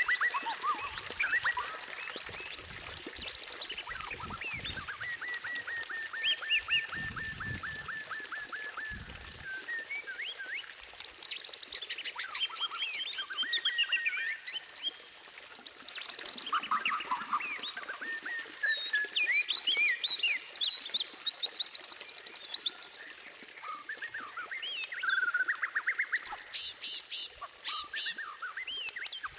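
White-rumped shama (murai batu) singing a long, varied song of clear whistles, rapid trills and sharp high notes, a masteran recording used to tutor captive songbirds. A few low thumps come in the first third.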